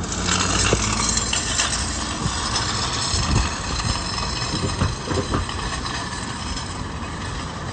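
Road and engine noise of a moving vehicle, with a few short knocks and rattles in the middle.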